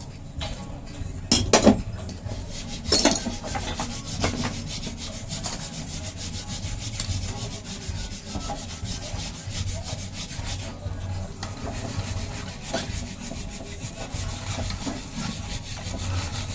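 Steady rasping scrape of hand tool work on a part, with a few sharp knocks about one and a half and three seconds in.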